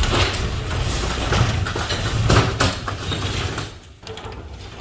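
Sectional garage door being pushed up by hand, its rollers rumbling and rattling in the metal tracks, then the noise drops off near the end.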